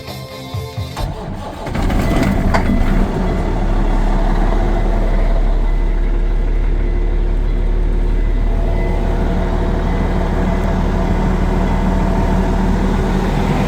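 Semi truck tractor's diesel engine cranking and catching about a second or two in, then idling steadily and loudly; a start made after waiting for the wait-to-start light to go out.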